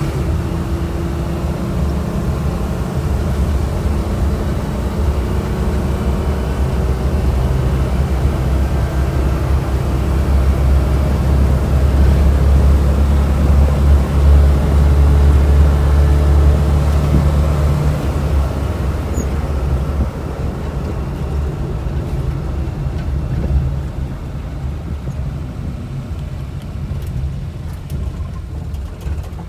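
Daihatsu mini van's small engine running while driving, with engine and road noise. The engine hum builds to its loudest around the middle, then eases off over the last third as it settles toward idle.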